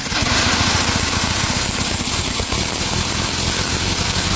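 1971 Opel GT's four-cylinder engine running steadily on a cold start, its first run after a rebuild with corrected timing and new starter, running on petrol fed by hand rather than from the tank.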